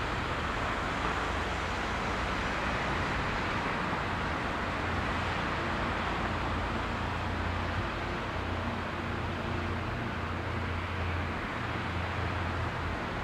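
Distant electric passenger train approaching along the line: a steady rumble and hiss, with a low hum growing stronger from about halfway through.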